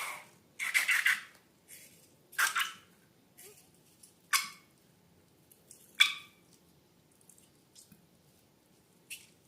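Slime being squished and worked by hand: irregular short wet squelches, about six of them, the loudest about six seconds in.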